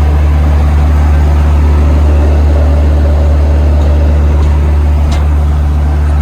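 Car driving at a steady speed: a loud, even low drone of engine and road noise.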